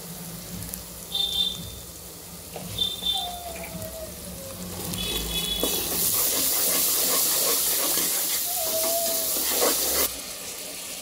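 Onions, ginger-garlic paste and turmeric sizzling in hot oil in a pressure cooker pot while a spoon stirs them. The sizzle swells loud from about six seconds in and drops off abruptly near ten seconds.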